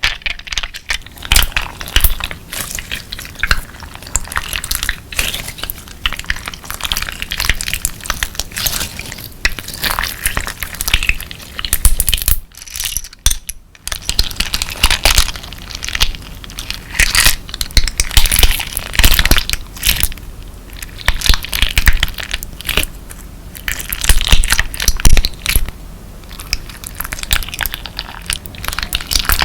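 Clear slime with colourful crystal pieces mixed in being squeezed and pressed by hand, giving dense, irregular crunching and crackling, with a brief pause a little before halfway.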